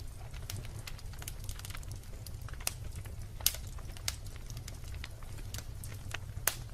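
Wood fire in a fireplace burning with a low steady rumble and irregular sharp crackles and pops of the logs, two louder pops about three and a half seconds and six and a half seconds in.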